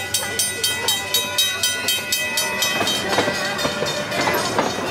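Small park train's passenger cars rolling along the track, the wheels giving a rapid, even clickety-clack, with some looser knocks and rattles later on.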